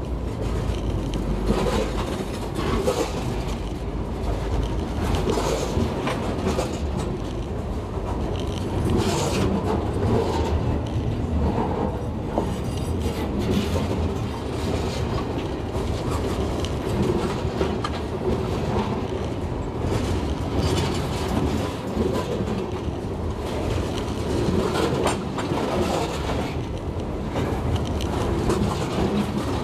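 Freight cars, tank cars among them, rolling over the camera from directly beneath: steel wheels running on the rails with a steady rumble and repeated clanks and clicks as the wheelsets pass over.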